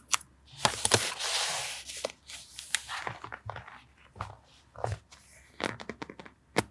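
Paper rustling and crinkling during journal collage work, with scattered sharp taps and clicks; the longest rustle comes about a second in and the sharpest click near the end.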